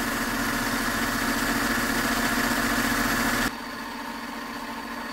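Mercedes M272 V6 engine idling steadily, its serpentine belt drive running with no squeak. The squeak was stopped by spraying water on the harmonic balancer. About three and a half seconds in the sound cuts off suddenly, leaving a quieter steady hum.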